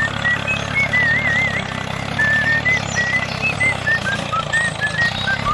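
Small electric motor of a DIY model tractor running steadily with a low hum, under a string of short, gliding whistle-like notes.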